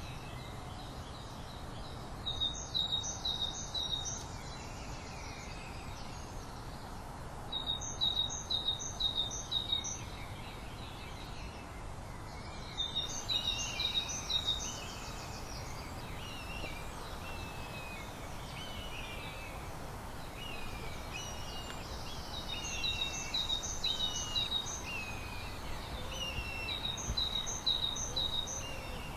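Songbirds singing over a steady background hiss: one bird repeats a short, quick run of high notes every few seconds. From about halfway, a second bird joins with short downslurred whistles about once a second.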